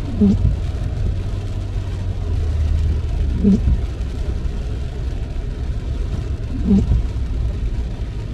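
Windshield wipers sweeping about every three seconds over the steady road rumble and rain hiss of a car driving in the rain. Each pass gives a short low groan as the blade drags, the sign of stiff wipers.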